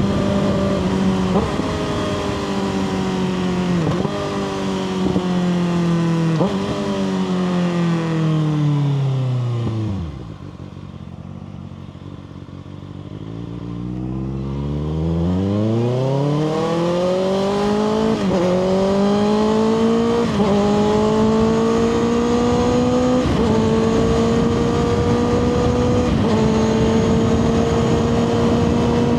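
2024 Kawasaki ZX6R's inline-four engine through a Two Brothers slip-on exhaust, slowing with several downshifts, each a brief jump up in revs, down to a low, quiet tick-over for a few seconds. It then pulls away, climbing in pitch with about four upshifts, and settles into a steady cruise near the end.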